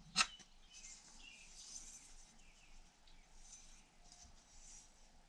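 One sharp metallic click of a clutch plate being set into a C6 transmission clutch pack, just after the start, then only faint high-pitched ticks and chirps.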